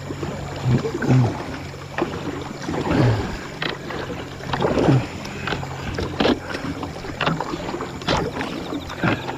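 Kayak paddling on a river: irregular paddle splashes and water sloshing, with sharp knocks and clicks of the paddle against the hull and a few low thuds.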